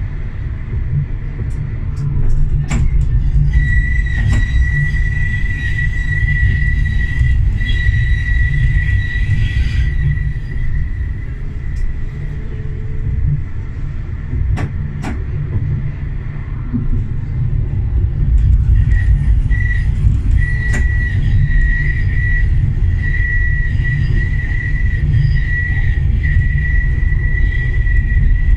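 Tram running along its rails, heard from the cab, with a steady low rumble. A single steady high-pitched squeal or whine comes in a few seconds in, stops near the middle and returns later. A few sharp clicks from the wheels over rail joints or track work are heard here and there.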